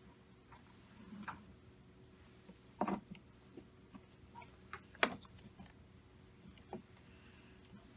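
Scattered light clicks and knocks of small engine parts and tools being handled at a workbench, the loudest two about three and five seconds in, over a faint steady hum.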